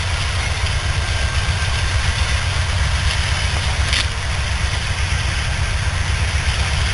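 Norfolk Southern freight train picking up speed, its diesel locomotives and rolling cars making a steady low rumble. A short click about four seconds in.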